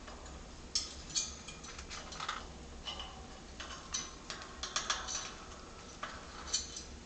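Light, irregular clicks and taps, about a dozen over several seconds, as a young Senegal parrot moves about.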